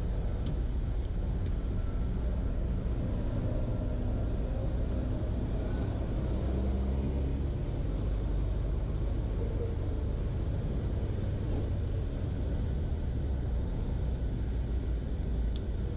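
A vehicle engine running steadily with a low rumble, and a few faint clicks near the start and end.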